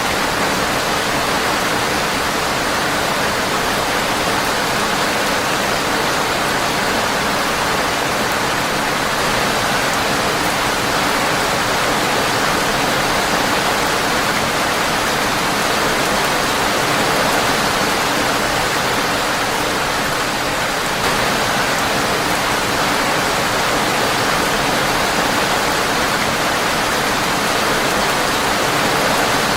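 Steady rain falling on a windowpane: a dense, even hiss that holds level throughout.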